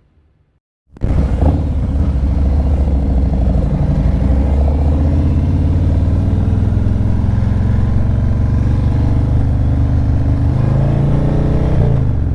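Harley-Davidson V-twin motorcycle engine running loud and steady, cutting in abruptly about a second in after near silence. Its pitch rises near the end as it accelerates.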